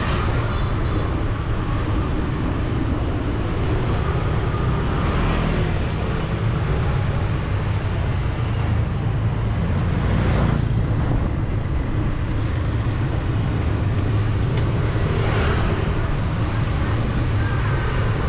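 City street traffic heard from a moving bicycle: a steady low rumble of passing engines, with individual vehicles going by about 5, 10 and 15 seconds in.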